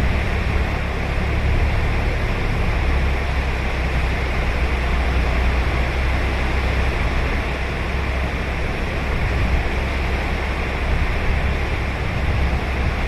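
Steady wash of ocean waves breaking on a sand beach, with a deep low rumble under an even hiss and no single break standing out.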